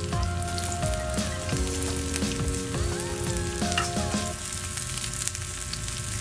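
Chopped red onions sizzling and crackling as they fry in an electric baking pan, stirred with a plastic fork. A simple background tune plays over it and stops about four seconds in.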